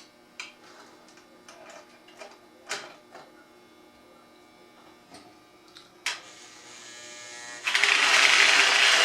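Lionel Scout toy train locomotive: a few light clicks, then about two thirds of the way in its electric motor starts and runs steadily and loudly.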